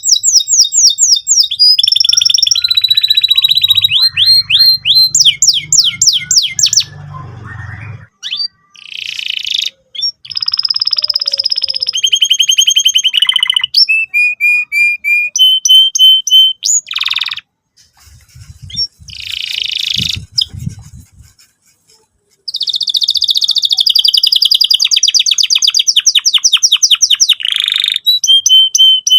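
Domestic canary singing a long, varied, energetic song of fast rolling trills and chirps, switching between rapid repeated notes and short whistled tones. There are brief pauses about a third of the way in and again past the middle.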